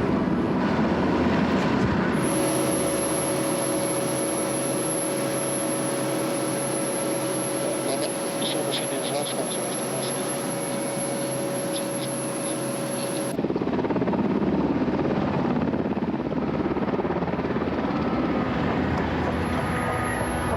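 Sea King rescue helicopter's twin turbines and rotor running steadily. For about eleven seconds in the middle the deep rumble falls away, leaving a thinner sound with a steady whine.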